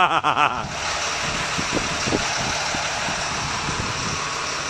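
A steady low engine hum under a constant rush of wind noise on the microphone, with a brief wavering swish at the very start.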